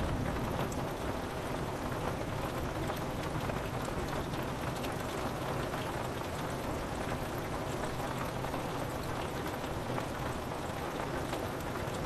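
Steady rain falling on a window, an even hiss with many small drop ticks scattered through it.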